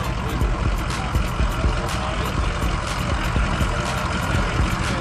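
A vehicle engine running at idle, a steady low rumble.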